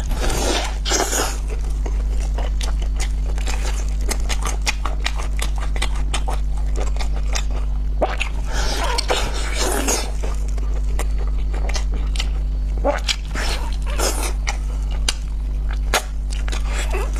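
Close-miked chewing and wet mouth sounds of biting and gnawing braised pork trotter skin and meat off the bone, many small clicks and smacks. A steady low hum runs underneath.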